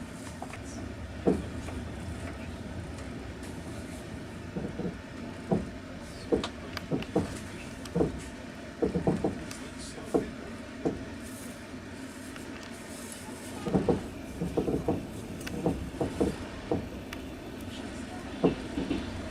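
Passenger train running on the rails, heard from inside the carriage: a steady low rumble with irregular clacks and knocks of the wheels.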